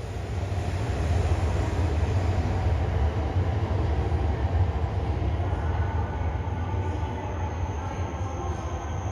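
Coupled Tohoku Shinkansen Yamabiko and Yamagata Shinkansen Tsubasa train running on the line: a steady rumble of wheels and running noise that swells in the first second and eases after about six seconds, with a thin high whine coming in near the end.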